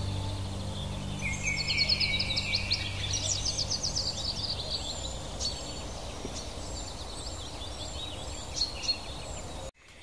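Several songbirds singing and chirping over a steady background hiss, with a quick run of trilled notes a couple of seconds in and scattered short calls after. The sound cuts out abruptly just before the end.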